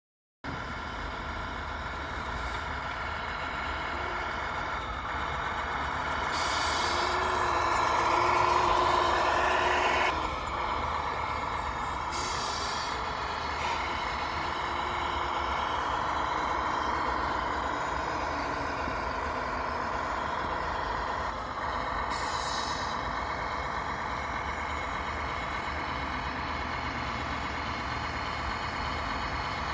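Sound unit of a Tamiya RC scale truck playing a simulated diesel truck engine. It runs steadily, rises to its loudest a little before the middle, and is broken by three short air-brake hisses.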